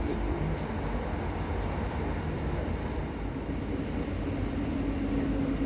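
Passenger train running, heard from inside the carriage: a steady low rumble of wheels on the track, with a few faint ticks early on. A steady humming note comes in about four seconds in.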